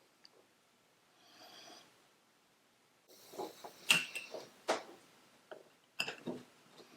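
Hand-handling noises as an oil-soaked sock is stuffed into a glass jar and the jar is assembled: quiet at first, then irregular sharp clicks and taps with rustling from about three seconds in, the loudest a little after that.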